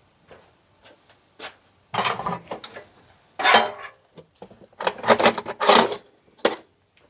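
Handling noise on a Greenworks 40V cordless chainsaw as its chain tensioner is worked with a screwdriver: a few light clicks, then scraping and rattling of plastic and metal parts in three bursts, about two, three and a half, and five to six seconds in.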